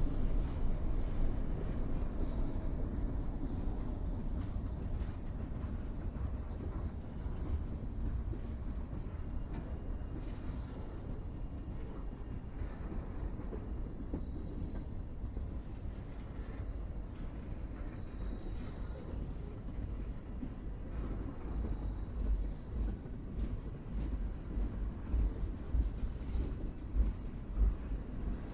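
Train cars rolling on the rails: a steady low rumble that eases slightly, with uneven thumps from the wheels in the last few seconds.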